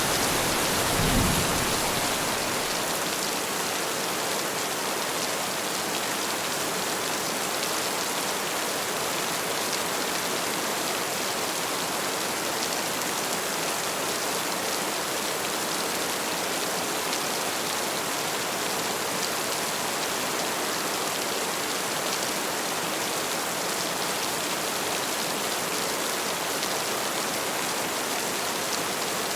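Heavy rain falling steadily in an even hiss. A low thunder rumble dies away in the first two seconds.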